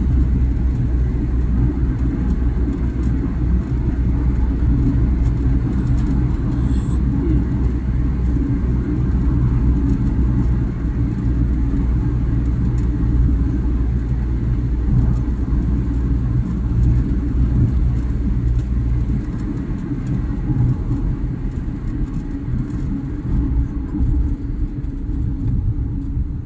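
Steady low rumble of a car on the move, easing a little about two-thirds of the way through.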